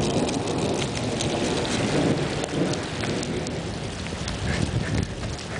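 Steady rain falling, with a low rumbling noise that swells and fades.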